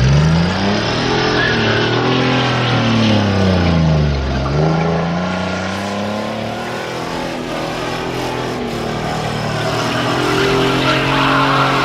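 Car engine revving hard: its pitch climbs, holds, drops about four seconds in and climbs again, with a rising hiss of tyre noise near the end.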